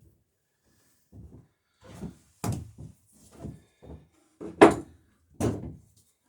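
Hammer striking a copper boat rivet on wooden dory planking, peening and mushrooming its head over the burr. About eight knocks come at uneven spacing, the loudest a little past halfway.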